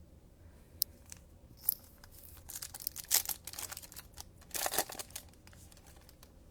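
Foil trading card pack wrapper being torn open and crinkled: a couple of sharp clicks, then bursts of ripping and crackling plastic, loudest about three seconds and again about four and a half seconds in.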